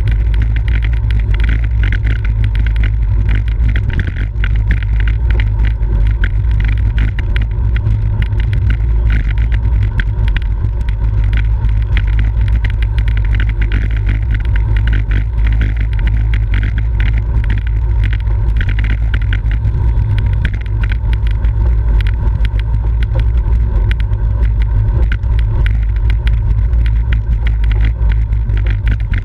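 Loud, steady wind rumble on the microphone of a camera carried on a road bicycle at racing speed, with a dense crackle of small clicks from road and bike vibration.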